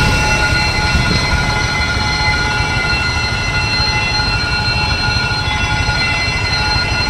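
Train approaching a level crossing: a steady low rumble with several sustained high-pitched tones over it.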